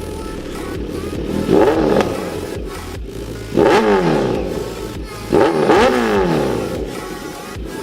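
Kawasaki Z900's inline-four engine idling and revved in three quick throttle blips, each climbing and dropping back to idle. It breathes through a de-catted Arrow full-system exhaust with the dB killer removed.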